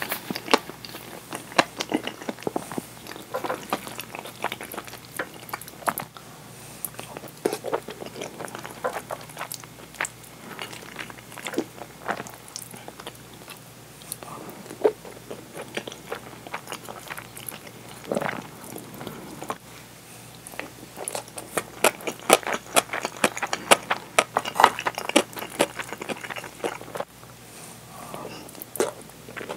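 Close-miked chewing and mouth sounds of someone eating curry rice with a fried egg and crunchy red pickles: irregular wet smacks and crunches, busiest near the end.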